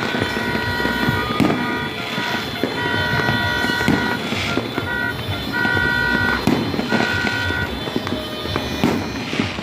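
Fireworks banging and crackling throughout, with a horn tooting at one steady pitch in repeated blasts of about a second each.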